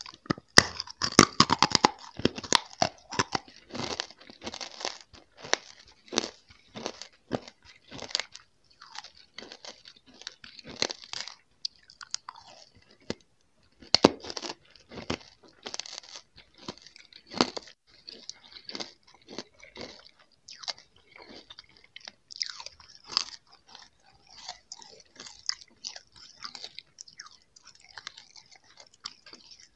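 Close-miked mouth sounds of chewing and crunching a banana-flavoured candy, with quick irregular bites, densest and loudest in the first few seconds, then steady chewing.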